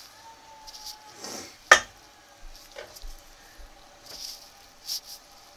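Zucchini frying under a stainless steel lid: soft, scattered sizzling and spitting, with one sharp metallic click of the lid a little under two seconds in.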